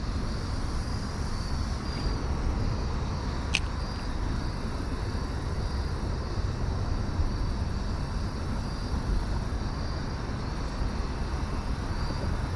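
Crickets chirping in a faint, even pulse about once a second over a steady low rumble.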